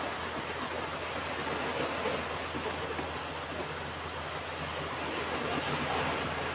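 Ocean waves washing onto a beach: a steady surf wash that swells a little about two seconds in and again near the end.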